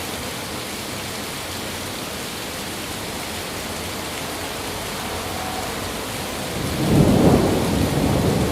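Steady rain falling, with a low roll of thunder rising about two-thirds of the way through and rumbling on to the end.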